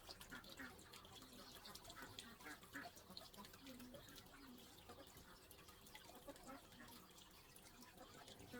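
Near silence: faint outdoor ambience with scattered short, quiet sounds.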